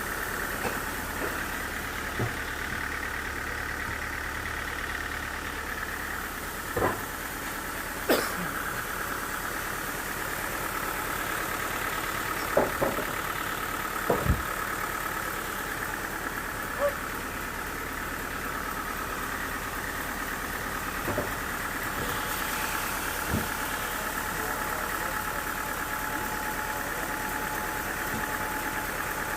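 An engine running steadily at an even speed, with about a dozen sharp knocks and clacks scattered over it.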